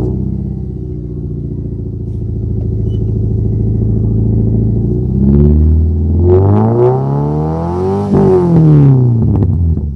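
2006 Subaru Impreza 2.5's flat-four exhaust through a Flowmaster HP-2 Hushpower muffler, idling steadily just after starting, then revved: a short blip about five seconds in, then a longer climb that peaks near the eight-second mark and falls back to idle.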